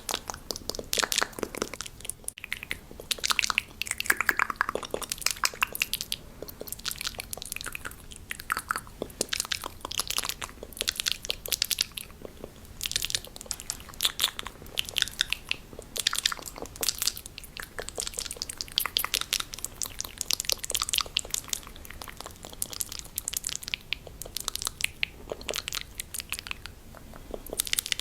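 Fast ASMR mouth sounds made close to the microphone: rapid wet clicks, pops and smacks of the tongue and lips, in quick irregular clusters.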